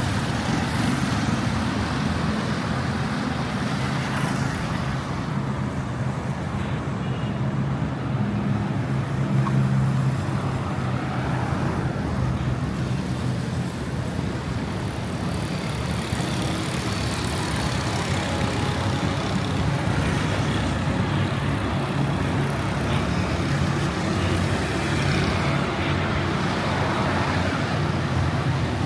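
Steady road traffic noise: car and motor engines running and passing, with a low hum underneath.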